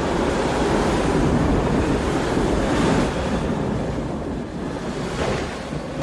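Strong gusting wind, a loud rushing noise that builds to a gust about three seconds in, then eases off, with smaller surges near the end.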